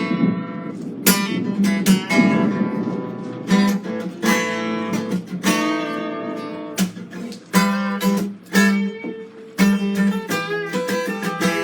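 Guitar strummed live: a run of chords, each struck with a sharp stroke and left to ring.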